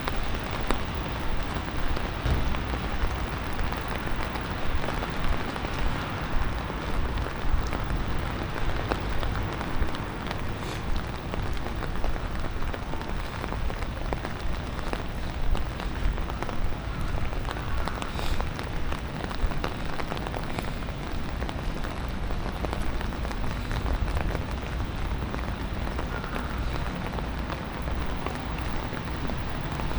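Steady rain falling: an even, dense patter with a few sharper drop ticks.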